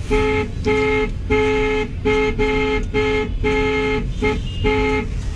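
Car horn honked repeatedly, about nine short and longer blasts in quick succession, over a low steady rumble.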